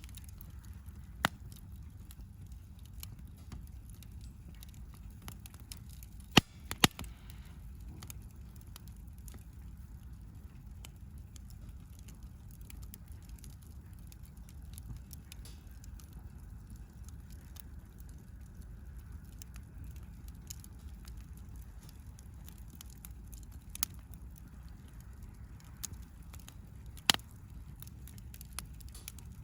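Wood campfire burning in a flat fire pit, crackling with scattered sharp pops over a steady low rumble. The loudest pops are a close pair about six seconds in and a single one near the end.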